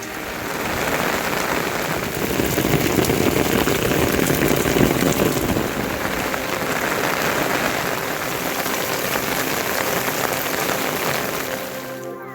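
Rain falling steadily, a dense even hiss that swells a little a few seconds in.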